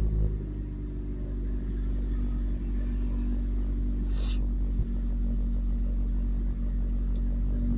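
Pickup truck engine idling steadily with a low rumble. There is a brief hiss about four seconds in.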